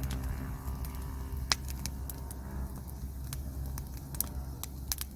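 Firewood burning, crackling with scattered sharp pops over a steady low hum.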